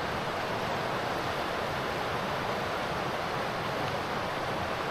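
Steady rushing of river rapids, an even water noise that doesn't change.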